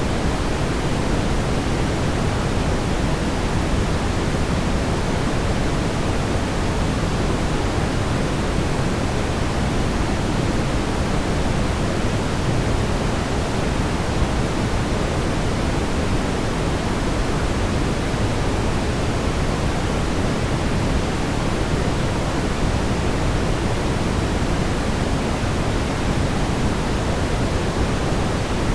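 Steady brown noise: an even, unbroken rumbling hiss weighted toward the low end, with no change in level or texture.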